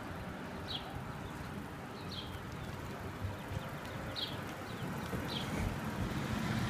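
Outdoor road ambience: a low, steady rumbling noise that slowly grows louder, with four short high bird chirps spaced a second or two apart.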